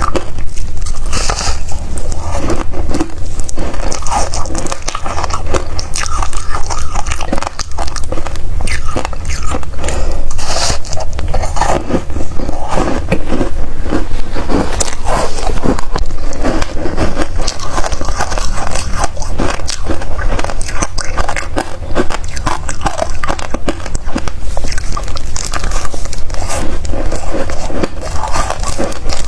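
Close-miked biting and chewing of crunchy freezer frost, with dense, irregular crackling crunches throughout over a steady low rumble.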